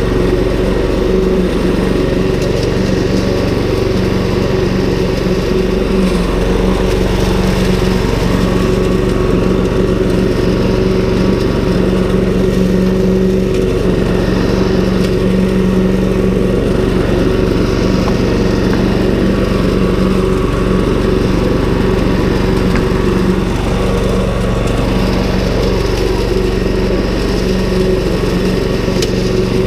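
Ryobi lawn mower's 190cc Subaru four-stroke engine running steadily at an even speed while cutting long grass.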